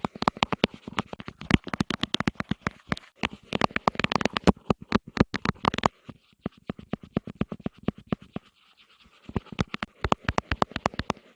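Rapid ASMR tapping, several sharp taps a second. The tapping thins out about six seconds in, stops briefly near the end, then picks up again.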